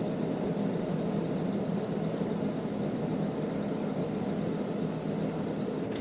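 Manual metal lathe running steadily, a constant mechanical hum and hiss.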